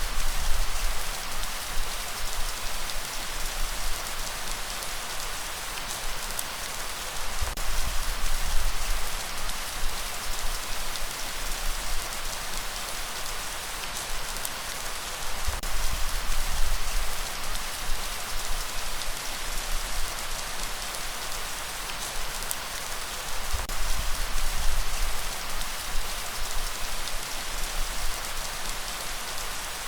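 Steady rainfall, a dense even hiss of drops hitting surfaces with scattered sharper drop ticks. Underneath runs a low rumble that swells about every eight seconds.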